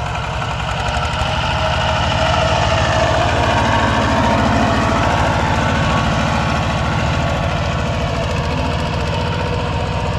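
Tractor diesel engine running steadily with a fast, even throb, growing louder over the first few seconds and then holding.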